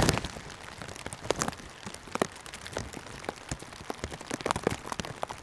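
Rain falling, with many irregular sharp drop taps close to the microphone. The loudest tap comes right at the start.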